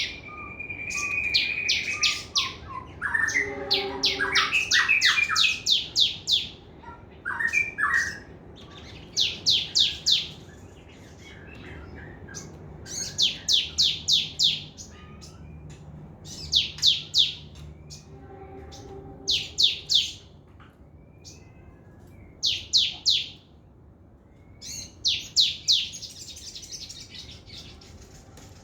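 Sogon trotol bird singing fast: bursts of rapid, sharp, high chirps, about five to eight notes each, repeated every few seconds. A lower call joins in briefly about three seconds in and again near the two-thirds mark.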